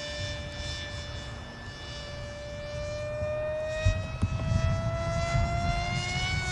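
Small RC airplane's motor running as a steady whine, rising slowly in pitch as it closes in and dropping sharply as it passes right at the end. A low rumble sits underneath from about four seconds in.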